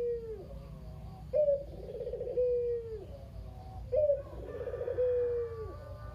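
Puter dove (a domestic collared dove) cooing its 'kugeru' call in repeated phrases, two full phrases about 1.3 and 4 seconds in. Each phrase opens with a sharp note, rolls into a trilled middle and ends in a drawn-out note that falls away.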